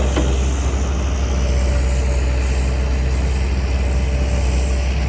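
Heavy diesel engine of earthmoving machinery running steadily with a deep, continuous rumble.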